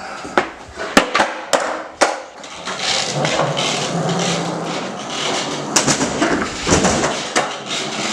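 Skateboard in use: sharp clacks of the wooden deck and tail striking the floor, four in the first two seconds, then the wheels rolling for a few seconds, with more clacks near the end.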